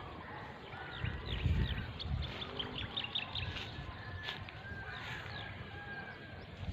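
Small birds chirping in the field, with a quick run of short chirps about three seconds in, over low irregular thumps from footsteps through grass.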